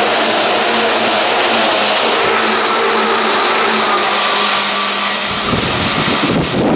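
Tokyu stainless-steel commuter train passing close by: a loud, steady rush of wheels on rail with faint motor whine. About five seconds in the sound changes abruptly to low wind buffeting on the microphone.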